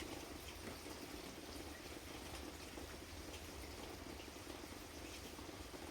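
Steady rain falling: a faint, even hiss with scattered light drop ticks.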